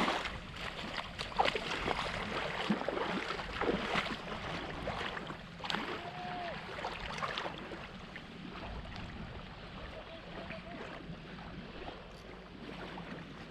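Wind on the microphone and waves washing on the shore, with scattered knocks and handling noises in the first half, growing quieter in the second half.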